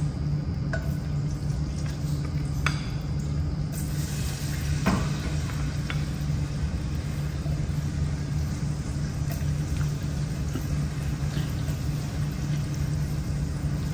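Chopped onions sizzling as they go into hot butter and oil in a saucepan, over a steady low hum, with a few light knocks of the spatula against the pan.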